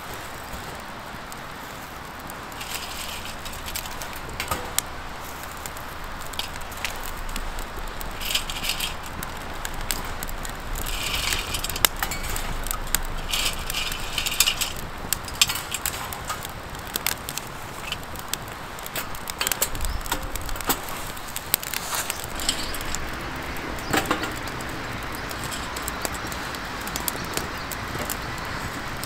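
Wood campfire crackling with many sharp pops scattered irregularly, over a steady background rush, with a few brief metallic jingles or scrapes.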